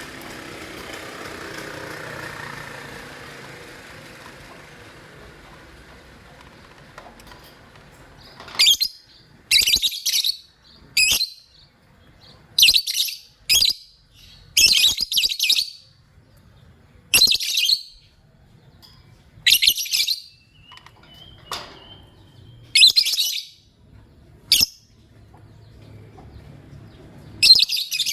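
Lovebird chirping: loud, high-pitched chirps in short bursts repeated every second or two, starting about eight seconds in after a faint hiss.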